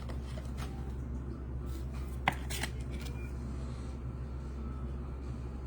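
Trading cards being handled by hand: light rustles and flicks of card stock, with one sharp click a little over two seconds in, over a low steady hum.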